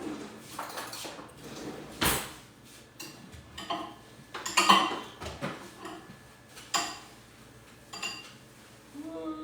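A metal utensil clinking and scraping against a bowl while stirring melted chocolate, in scattered strokes, the loudest about two seconds in and again near the middle.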